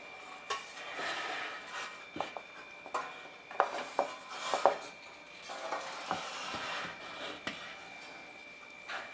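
Hand-work on a small metal appliance: scraping and rubbing, broken by several sharp clinks and knocks, the loudest a cluster in the middle, over a faint steady high-pitched tone.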